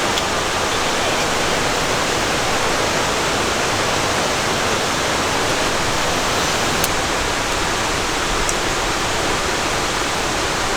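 Steady, dense rush of heavy rain falling.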